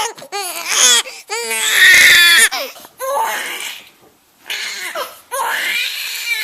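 Newborn baby crying in a string of wailing cries, the loudest about two seconds in, with a short break in the middle; the parent takes the crying for hunger.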